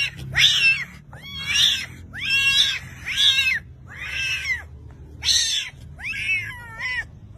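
A frightened cat meowing over and over: about eight drawn-out meows in quick succession, each rising and then falling in pitch.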